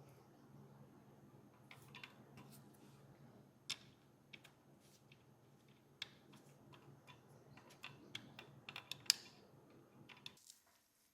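Light, irregular clicks and taps of small model parts being handled and fitted, over a faint steady hum that cuts off near the end.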